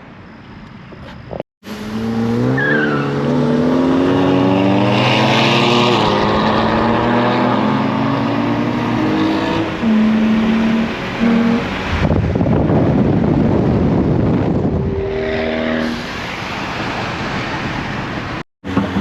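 A car engine accelerating hard, its pitch climbing over several seconds with steps between gears, followed by a stretch of rushing noise and a short steady engine note.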